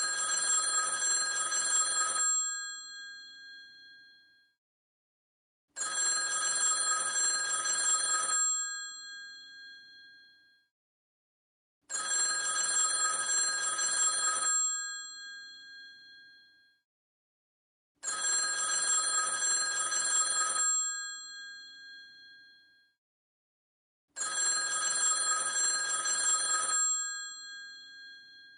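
Old telephone's mechanical bell ringing in repeated rings of about two and a half seconds, one roughly every six seconds, each ring dying away before the next.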